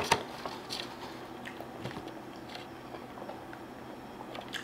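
A person chewing a dry sausage-and-cheese McMuffin close to the microphone: quiet chewing with small mouth clicks, most of them in the first second, and a sharper click at the very end.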